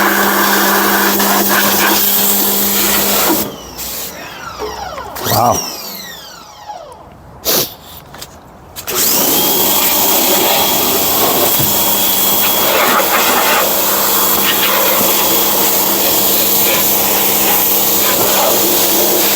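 Small pressure washer running with a steady motor hum and spray hiss. About three and a half seconds in it drops away for several seconds with wavering pitch, then comes back steady around nine seconds in.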